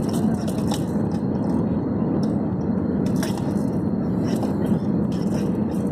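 Steady low roar of an airliner's cabin in flight, the engine and airflow noise heard from inside, with a few faint scattered clicks.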